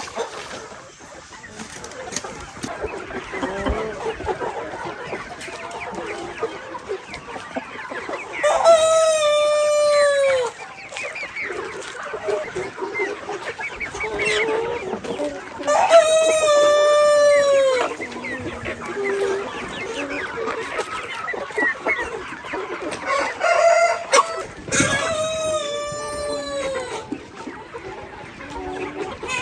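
Chickens: three rooster crows, each about two seconds long with a drawn-out falling end, over steady clucking from the flock.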